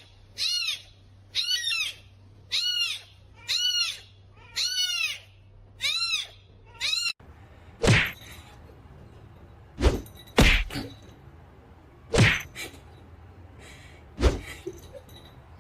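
A cat meowing seven times in a steady series, about one call a second, each call rising and then falling in pitch. After an abrupt cut come several sharp thumps, the loudest sounds here.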